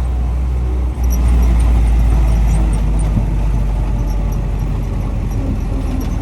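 1944 Army Jeep driving, its four-cylinder flathead engine running under a heavy, steady low rumble that dips briefly and grows louder about a second in.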